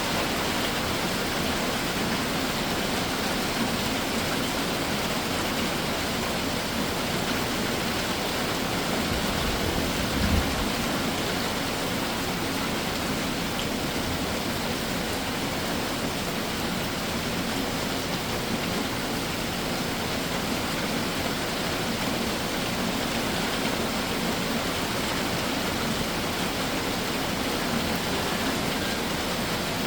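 Summer shower rain falling steadily in a dense, even hiss, with one dull low thump about ten seconds in.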